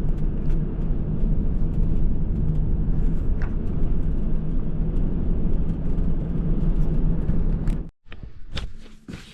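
Steady low rumble of road and engine noise inside a moving vehicle's cabin. It cuts off abruptly near the end, followed by a few light clicks and knocks.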